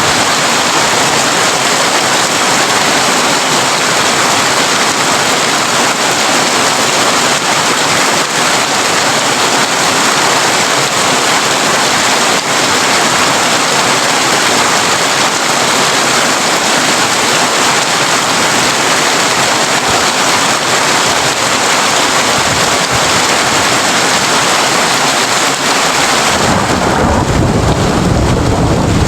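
Heavy rain falling on a tin roof, a loud, steady, dense patter. Near the end the high hiss thins and a low rumble of thunder sets in.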